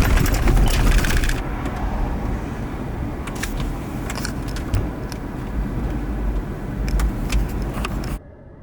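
Moving vehicle's road and wind noise: a heavy low rumble with scattered sharp clicks and rattles, hissier during the first second or so. It stops abruptly near the end.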